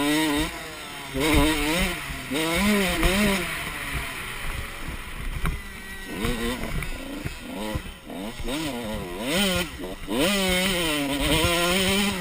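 Motocross dirt bike engines revving, rising and falling in pitch again and again as the throttle opens and closes, with more than one bike heard at once at times.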